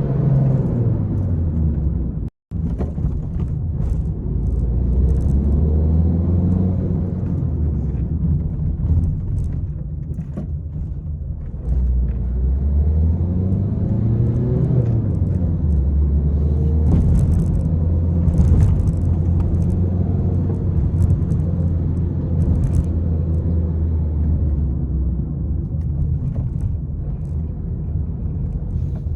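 Peugeot 301 driving, its engine running under load with tyre rumble; the engine note falls in the first two seconds, the sound cuts out for an instant about two seconds in, and the engine rises and falls again around the middle. A cluster of sharp ticks comes a little past the middle.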